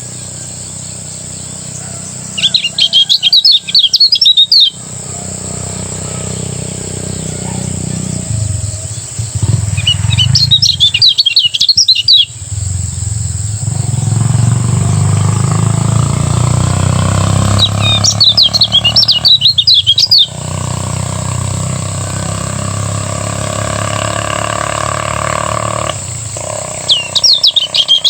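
Kecial kuning (lemon-bellied white-eye) singing its fast twittering song in loud bursts of about two seconds, four times, roughly every eight seconds. A steady high thin tone and a low rumble run underneath between the bursts.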